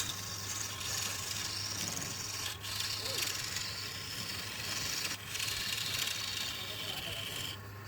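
Woodturning tool cutting into wood spinning on a lathe, with a steady low hum under it. The cutting makes a hiss in three passes, with short breaks about two and a half and five seconds in, and stops shortly before the end.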